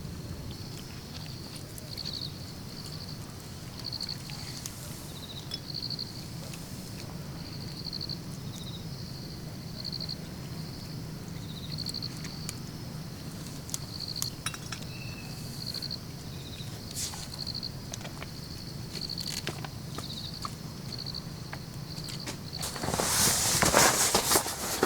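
Insect chirping in short pulsed calls about once a second, with scattered light clicks and knocks and a loud rustling burst near the end.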